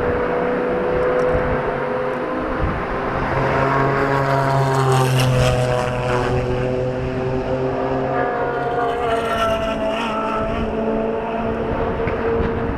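Supercar engines running, with several engine pitches heard at once, rising and falling slightly and growing strongest around the middle.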